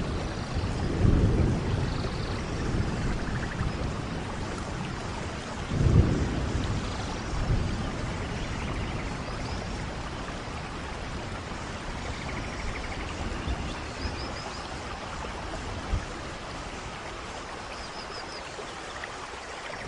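Steady rainfall with low rumbles of thunder, the strongest swelling about a second in and again around six seconds in, and a short low thump near the end.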